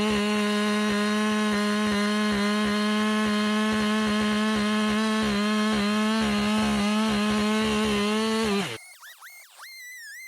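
Husqvarna two-stroke chainsaw held at a steady high pitch at full throttle, cutting wood. The saw sound stops abruptly near the end, and a faint, wavering high-pitched sound follows.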